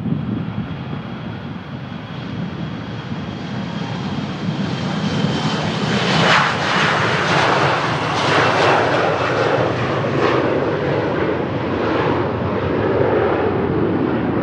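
Delta Embraer E175's twin General Electric CF34 turbofans at departure power, swelling as the jet climbs past, with a high fan whine that slides down in pitch about six seconds in. The noise then stays loud and uneven, with wind buffeting the microphone.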